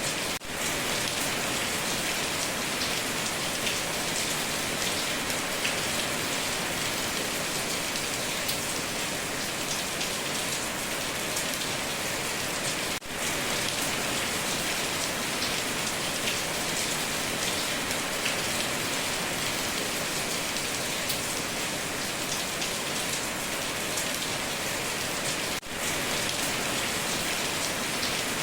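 Heavy rain pouring onto a tin roof, a steady dense patter of drops. The level dips for a moment three times, about thirteen seconds apart.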